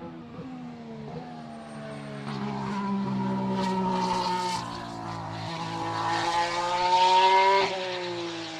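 Red Bull RB14 Formula 1 car's 1.6-litre turbocharged V6 hybrid engine accelerating on track. The pitch climbs, dips briefly about halfway through and climbs again, growing louder until it peaks and drops sharply near the end.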